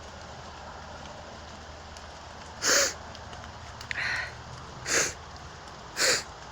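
Heavy rain falling steadily, broken by three short, loud hissing bursts about two and a half, five and six seconds in, and a softer one in between.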